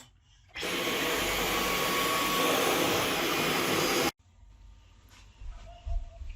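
Dyson V11 cordless stick vacuum running at full power, a steady loud whoosh with a faint whine in it. It starts about half a second in and cuts off suddenly about four seconds in, leaving only faint, scattered sounds.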